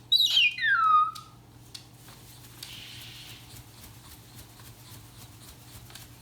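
Moluccan cockatoo giving one short whistled call that slides down in pitch over about a second, followed by faint scattered clicks and taps.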